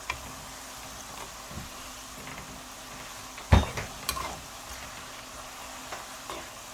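Sliced green plantain deep-frying in hot oil, sizzling steadily, with light clinks of a utensil against the pot and one louder knock about halfway through.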